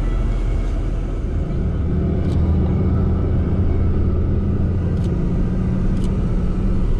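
Toyota Land Cruiser driving on a dirt desert track: a steady engine and road rumble, with the low engine drone growing stronger about a second and a half in.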